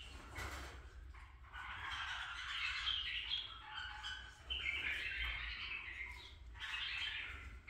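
Caged birds chirping and chattering in three bouts, the longest starting about one and a half seconds in.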